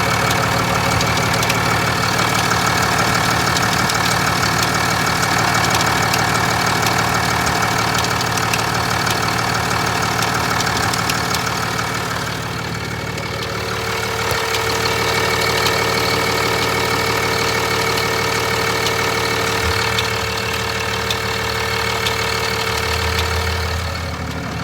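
2021 Ram 2500's 6.7-litre Cummins inline-six turbo-diesel idling steadily with a rapid, continuous ticking. The cause of the tick is not yet found. The tone of the engine shifts about halfway through.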